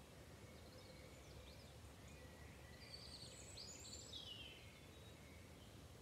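Faint dawn-chorus birdsong: scattered thin, high phrases with quick sweeping notes, busiest about halfway through, over a low steady background rumble.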